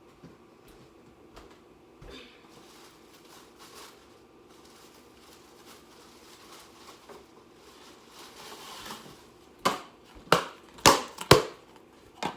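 Kitchen handling noises: faint rustling and shuffling, then a quick run of about five sharp crackles and knocks in the last few seconds.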